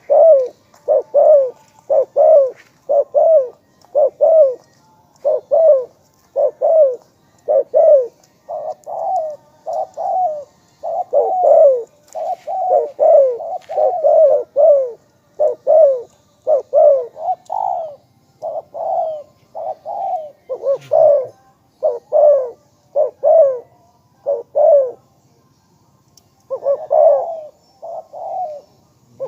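Spotted dove cooing: a steady run of short low coos, a little over one a second, with a brief pause near the end.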